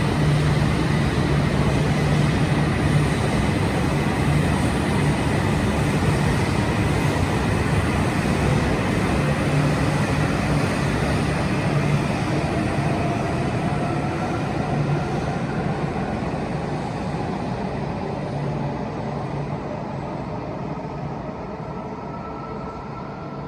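Tohoku Shinkansen train pulling out of the station: a steady rumble and hum with a faint whine that climbs in pitch as it gathers speed, the whole sound fading away over the last ten seconds.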